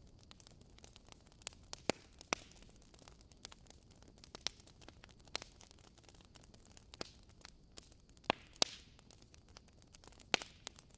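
Firewood burning in a fireplace, crackling with irregular sharp pops, a few of them louder, and a short hiss after one pop about eight and a half seconds in.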